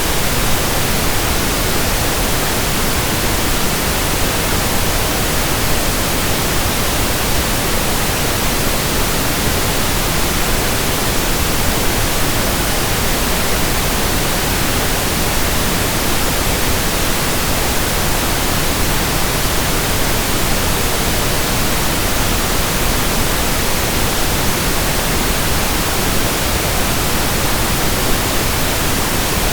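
Steady synthetic pink noise: an even, unchanging hiss across the whole range, with no rhythm or events.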